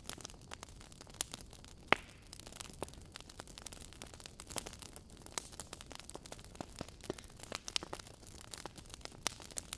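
Wood logs burning in a fireplace, crackling and popping irregularly over a faint low hiss, with one sharper pop about two seconds in.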